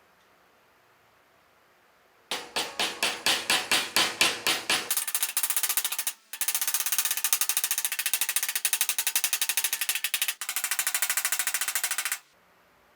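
Rapid repeated sharp strikes: starting about two seconds in, separate knocks about five a second growing louder, then a faster steady run of strikes broken twice for a moment, stopping abruptly near the end.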